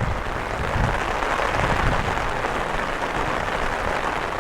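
Steady hiss of rain falling, with irregular low rumbling underneath in the first couple of seconds.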